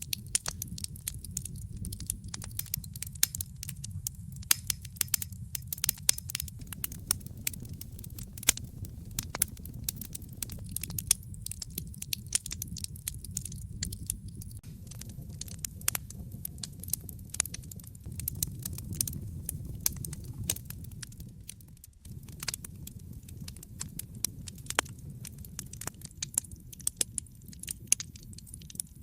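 Wood fire crackling in a fireplace: many irregular sharp pops and snaps over a steady low rumble of the flames. About three-quarters of the way through, the sound drops out for an instant.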